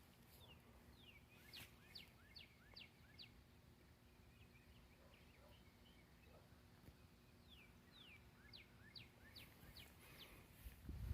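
Faint bird song: a phrase of five or six quick whistled notes, heard twice, over a low background rumble that grows louder near the end.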